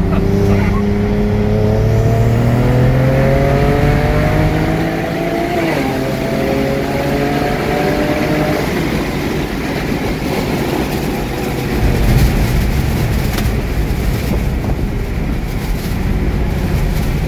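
BMW 335i's N54 twin-turbo straight-six accelerating hard, heard from inside the cabin. The engine note climbs steadily, drops briefly at a quick upshift about six seconds in, then climbs again until the throttle is lifted about eight and a half seconds in. After that, road and tyre rumble carries on with the engine low.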